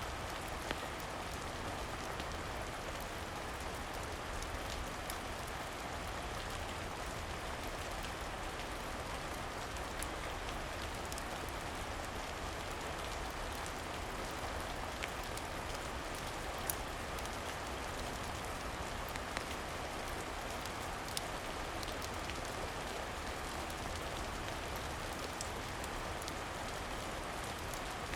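Steady rain falling, an even hiss with scattered sharp ticks, the clearest about 17 seconds in.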